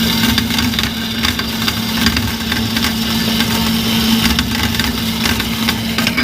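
Metal-cutting bandsaw running steadily, its motor humming under the rasp of the blade cutting through a steel piece.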